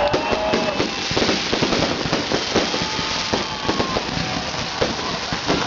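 Fireworks salute going off: many sharp bangs and crackles in quick, irregular succession.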